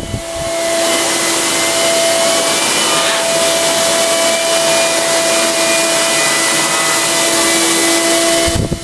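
ETA 3408 Quinto vacuum cleaner running steadily: a rush of air with a steady motor whine, which changes near the end.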